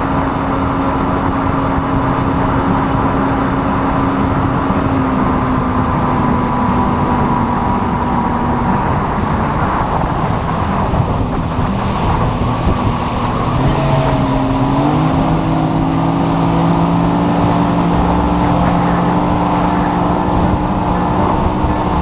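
Boat's outboard motor running under way, its pitch easing down a couple of times in the first half and rising again just past the middle, with rushing water and wind.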